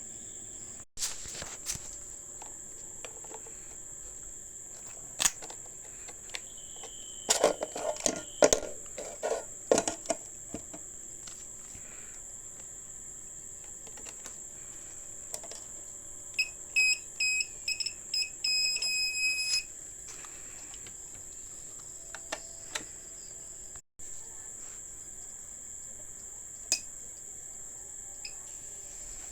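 A steady high-pitched tone throughout, with scattered clicks and knocks and a run of rapid electronic beeps about 16 to 19 seconds in.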